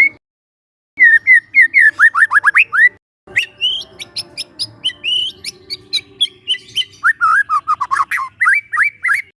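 Young white-rumped shama singing: a quick run of downward-sweeping whistled notes, then a stretch of higher, sharper notes mixed with clicks, then another fast run of sweeping whistles near the end.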